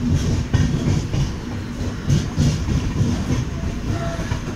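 Passenger train running, its wheels clattering over rail joints with a steady low rumble and repeated knocks.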